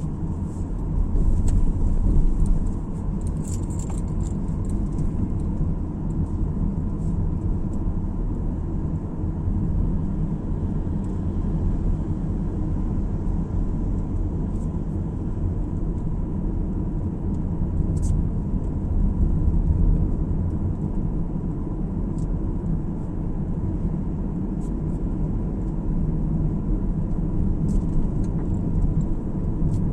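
A car driving along a road: a steady low rumble of road, tyre and engine noise, with a few faint high ticks now and then.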